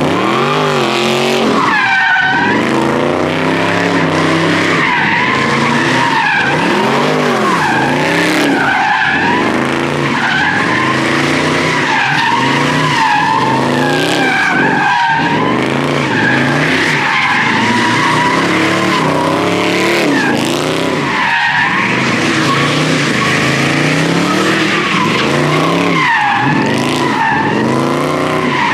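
Car doing a burnout: the engine revs up and drops back over and over while the rear tires squeal steadily against the pavement.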